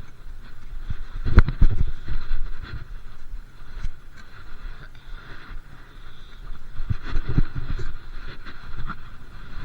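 Riding noise from a bike on the move: a steady rumble with clusters of knocks and jolts about a second in and again around seven seconds.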